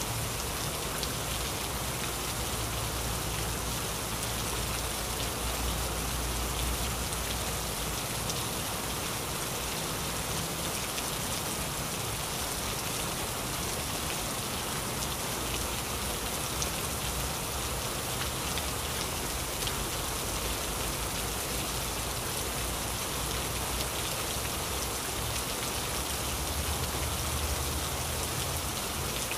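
Heavy rain pouring steadily, a dense even hiss of drops on surfaces, with a low rumble swelling underneath a few seconds in and again near the end.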